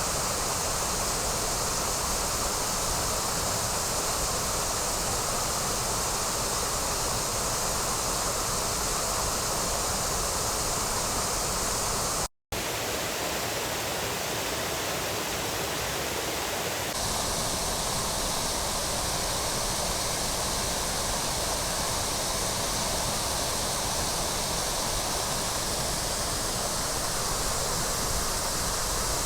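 Waterfall's steady rush of water, an even hiss, broken by a split-second drop to silence about twelve seconds in where the recording cuts.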